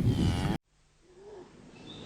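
Tail end of a cow-mooing recording: rough farmyard noise after the moo, cut off abruptly about half a second in. After a moment of silence, faint background sound of the next clip comes in.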